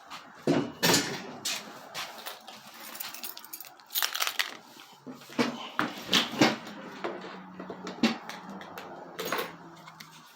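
Irregular knocks and clatter of hard objects being handled and set down, about ten sharp hits, with a faint steady low hum under the second half.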